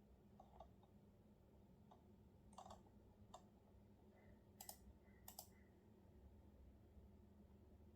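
Faint, scattered computer keyboard keystrokes: several short, sharp clicks at irregular intervals, a pair of them close together twice, then none from about five and a half seconds in.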